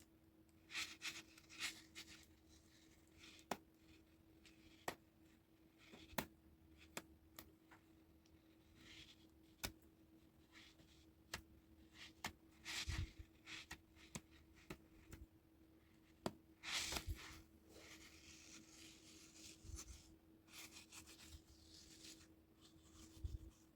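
Faint handling sounds: scattered small clicks and taps, with short stretches of rustling and rubbing as packaging is handled, over a faint steady hum.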